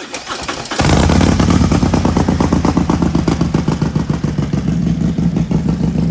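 Harley-Davidson Road Glide Limited V-twin with a big-bore engine and 2-into-1 exhaust, cold-started: the starter cranks for under a second, then the engine catches and runs loud with a steady, lumpy pulsing idle.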